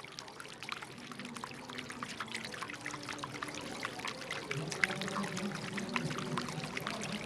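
Water pouring and splashing: a dense patter of small splashes that grows slightly louder, with a faint low pitched sound underneath.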